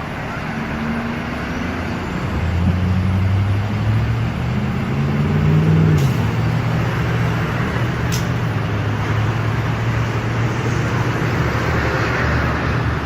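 A motor vehicle's engine running with road noise, its pitch rising and shifting a few seconds in. Two short sharp clicks come in the middle.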